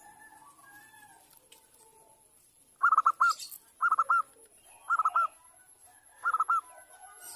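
Zebra dove (perkutut) cooing: four short phrases about a second apart, each a quick run of three or four notes.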